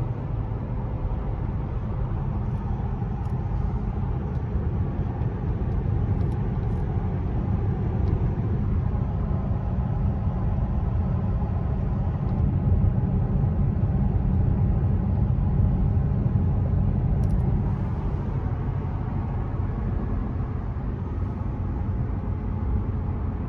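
Bentley Continental Supersports' twin-turbo W12 engine and road noise heard from inside the cabin while driving: a steady low rumble, a little louder about halfway through.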